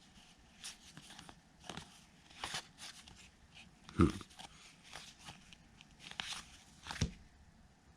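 Baseball trading cards being handled and flipped through one by one: a string of short papery slides and snaps, with two heavier thumps about four and seven seconds in.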